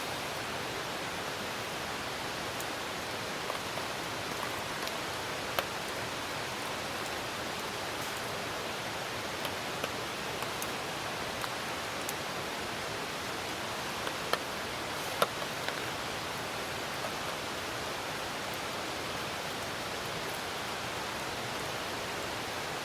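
Steady hiss of rain with a wood campfire burning, giving a few sharp crackles and pops, the loudest about 5 s in and twice around 14 to 15 s in.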